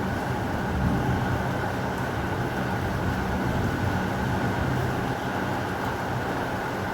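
Heavy rain falling steadily, with a deep, even low rumble underneath.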